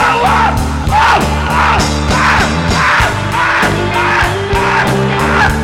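Live rock band playing a loud instrumental passage: a steady drum beat and held bass notes under repeated wailing, sliding high notes.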